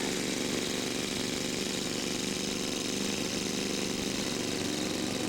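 Radio-controlled scale model airplane's gas engine running steadily with a fast, even buzz.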